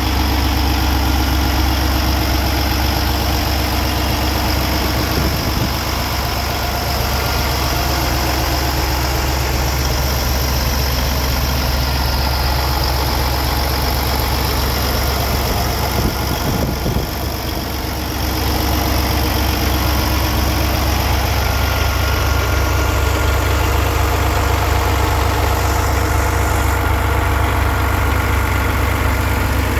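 Peterbilt 389 truck's Paccar 510 hp diesel engine idling steadily, dipping briefly in level partway through.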